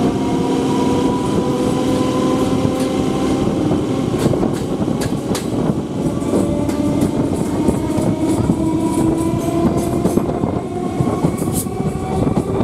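Electric local train (EMU) running, heard from an open doorway: a whine that rises slowly as the train picks up speed, over a steady rumble of wheels on rail, with sharp clicks of the wheels over rail joints from a few seconds in.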